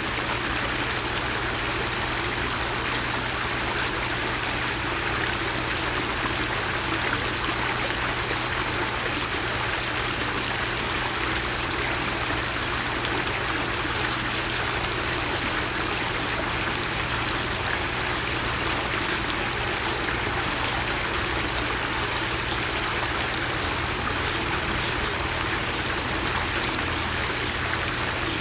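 Steady, unchanging rushing noise like running water, with a low hum underneath.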